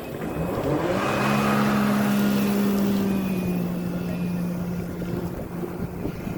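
Motorboat engine rising in pitch over about the first second as it speeds up, then running at a steady pitch, with rushing wind and water noise; it eases off a little toward the end.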